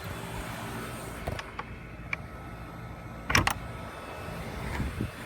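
Outdoor air conditioner condenser unit running with a steady hum. A few light clicks come near the middle, and a sharper knock follows a couple of seconds later.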